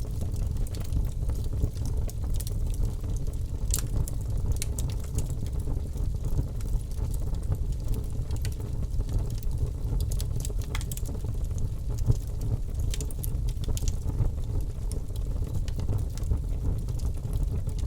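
Wood fire crackling in a fireplace: a steady low rumble of burning with scattered sharp pops and snaps, one louder pop about twelve seconds in.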